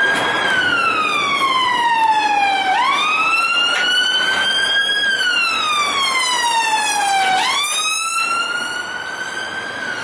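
Battery-powered toy car's electronic siren wailing: one tone that slowly falls, snaps back up, rises again and falls, in a cycle of about five seconds.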